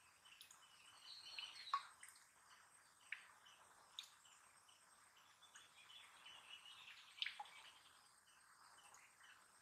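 Faint outdoor ambience with scattered high bird chirps, a few short sharp ones standing out from the rest.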